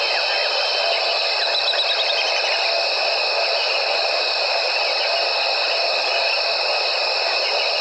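Dense evening chorus of insects, a steady high shrill on several pitches at once, with a short falling run of quick notes about one and a half seconds in.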